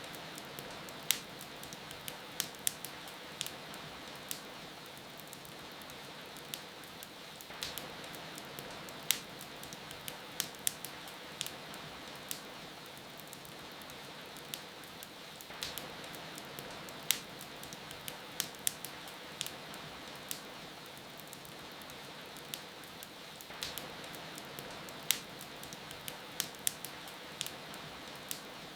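Steady rain hiss with a wood fire crackling over it: many sharp, irregular pops and snaps scattered throughout.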